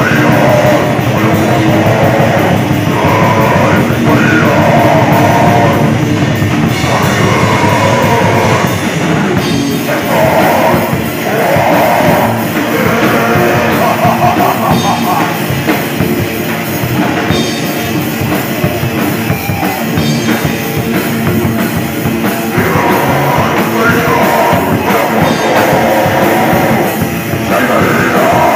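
Heavy rock song played by a band: distorted guitars, bass and drum kit, with a voice singing over it.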